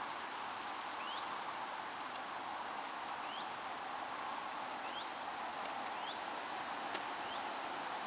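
A small bird calling over and over, a short rising chirp about every three-quarters of a second, over a steady rushing background noise.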